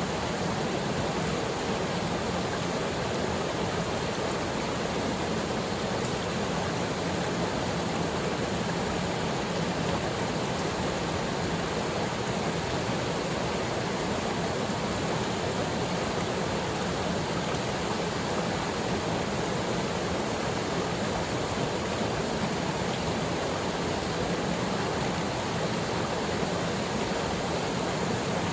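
Waterfall pouring into its plunge pool: a steady, even rush of falling water that does not change.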